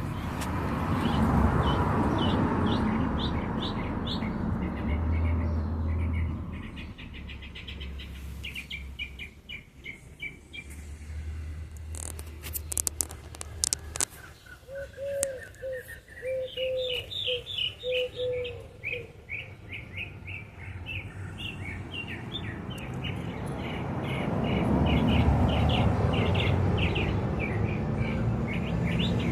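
Birds chirping in quick repeated trills throughout, with a short run of lower notes in the middle. A broad rushing noise swells at the start and again near the end, louder than the birds.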